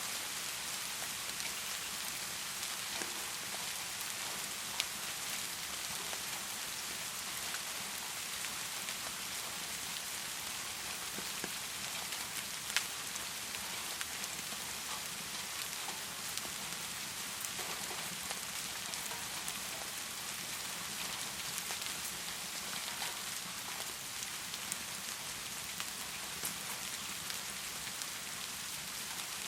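Heavy rain falling steadily, an even hiss with a few sharp ticks standing out here and there.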